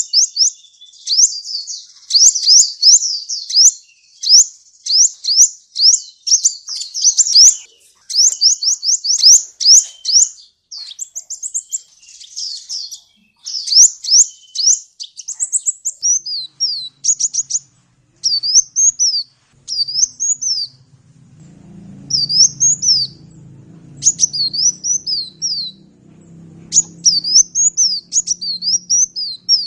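Sunbird (Indonesian 'kolibri') singing: a rapid, high-pitched chatter of quick chirps, thinning after about halfway into short groups of falling notes. A faint low hum comes in under the song after the middle.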